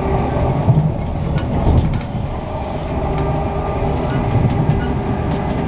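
Passenger train running along the track, heard from inside the carriage: a steady rumble of the wheels on the rails with a few short clicks and a faint steady tone.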